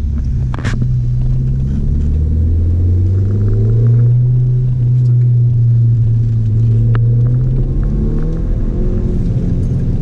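Audi S3 8L's 1.8-litre turbocharged four-cylinder engine heard from inside the cabin while driving, its pitch rising over the first few seconds, then holding steady before shifting about eight seconds in. Two sharp clicks stand out, one just after the start and one about seven seconds in.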